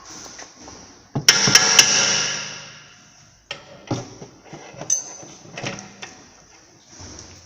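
Hammer striking steel on a 2007 Audi A6's front upper control-arm mounting to drive out a seized bolt. One loud ringing blow about a second in fades slowly, followed by several lighter knocks.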